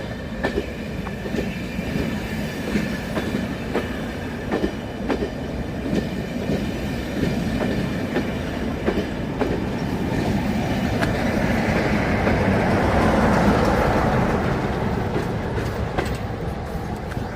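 A train rolling past, its wheels clicking over the rail joints at a steady beat, the rush of the passing carriages swelling for a few seconds past the middle.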